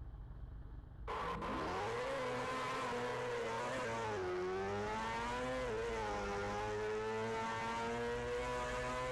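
Kawasaki Ninja ZX-10R inline-four engine: after a brief lull it comes in about a second in, revs rising and dipping a couple of times, then holds at a steady high pitch.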